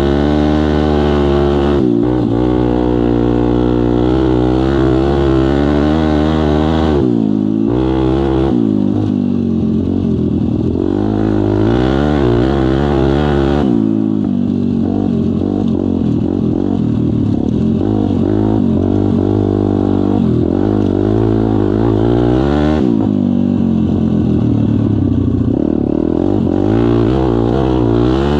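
Pit bike engine under way, its pitch rising and falling with the throttle. It drops off and climbs again several times, as when backing off and shifting gears.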